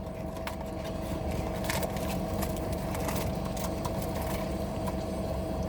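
Car engine idling, heard from inside the cabin: a steady low rumble with a constant faint hum and a few light clicks.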